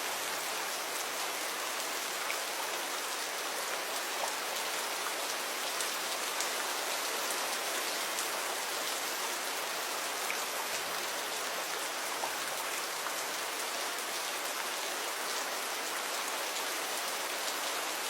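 Steady gentle rain falling, a constant hiss with scattered individual drops ticking on a surface.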